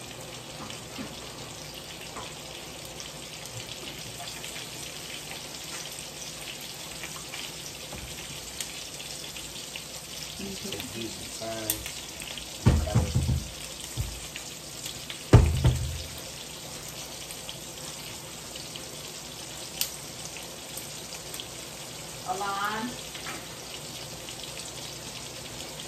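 Food sizzling and crackling in a frying pan, steady throughout. About halfway through come a few loud, low thumps.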